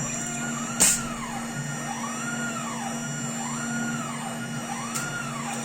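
Motor drive of a homemade CNC lathe turret toolpost during a test run: a whine rising and falling in pitch about once a second over a steady hum, with a sharp click about a second in and a fainter one near the end.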